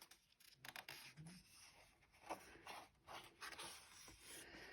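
Near silence with faint, brief paper rustles and soft clicks, the handling of a picture book's pages.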